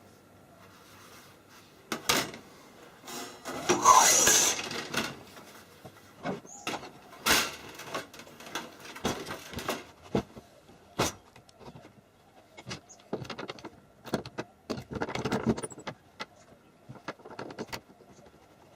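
Irregular clicks, knocks and scraping, the sound of objects being handled, loudest in a longer scrape about four seconds in and again around fifteen seconds.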